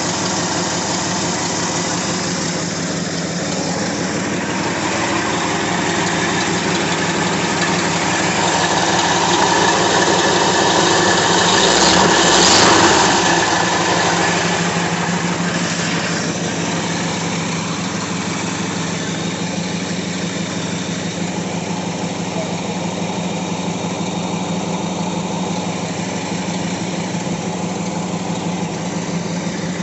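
An engine idling steadily, growing louder for a few seconds about twelve seconds in, then settling back.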